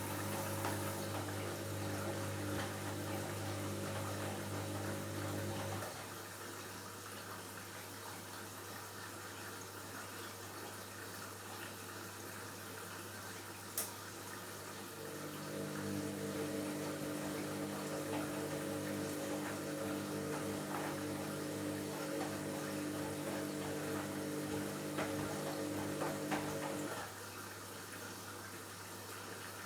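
Washing machine drain pump running with a steady electric hum and water flowing. The hum stops about six seconds in, starts again about halfway through, and stops near the end, while the water sound carries on. One sharp click just before the hum comes back.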